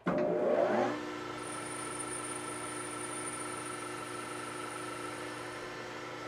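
Metal lathe starting up: its motor and spindle come up to speed with a rising whine over about the first second, then run steadily with a constant hum and a faint high-pitched whine.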